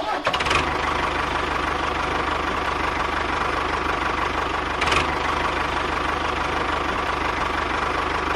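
Tractor engine idling steadily with a fast, even knock, with a brief click about five seconds in.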